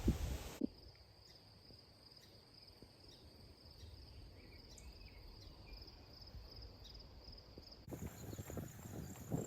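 Insects trilling steadily at a high pitch in a fine, even pulse. Near the end it gives way to footsteps on the trail.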